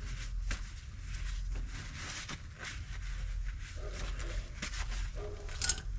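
Scattered light clicks and knocks over a steady low rumble, like tools or parts being handled.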